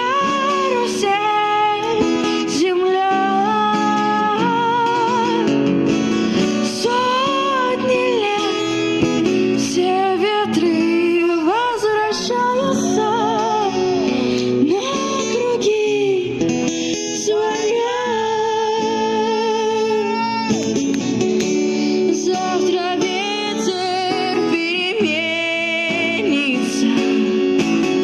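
A woman singing with wide vibrato over a strummed acoustic guitar.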